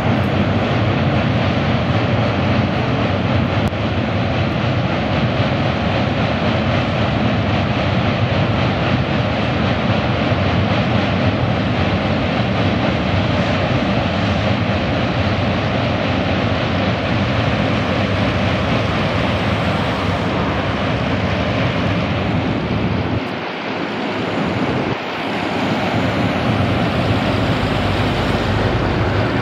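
Steady rumbling roar of a passenger train crossing the steel-truss Hardinge Bridge, heard from across the river, easing briefly about three quarters of the way through.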